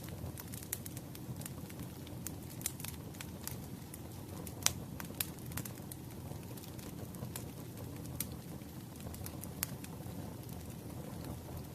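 Burning firewood: a steady low rumble of flames with irregular sharp crackles and pops, the loudest pop about four and a half seconds in.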